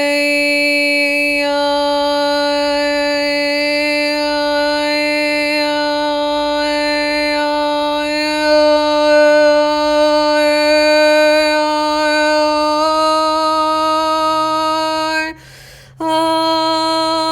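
A woman's voice toning a long, steady sung vowel for the third-eye chakra, the "I" (eye) sound, held on one pitch. The pitch steps slightly higher twice, and near the end the tone breaks off for a breath and then resumes.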